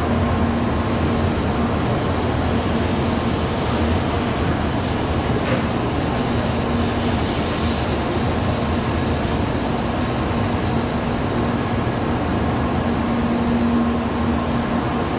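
N700-series Shinkansen bullet train rolling slowly past along a station platform: a steady rush of wheel and running noise with a low hum that comes and goes.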